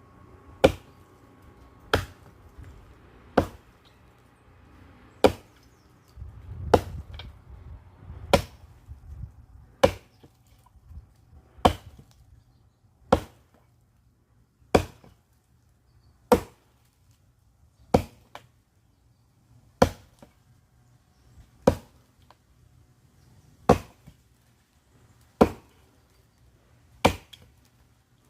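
Firewood being chopped by hand: sharp, single blows of a cutting tool into wood, about one every one and a half to two seconds, with some rustling between blows a few seconds in.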